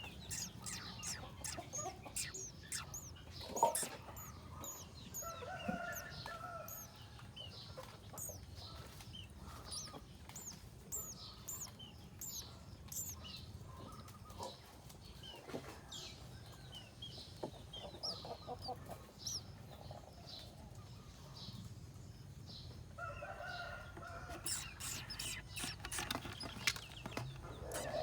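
Baby birds chirping in quick, high-pitched peeps throughout, with a lower, longer call about five seconds in and again near the end.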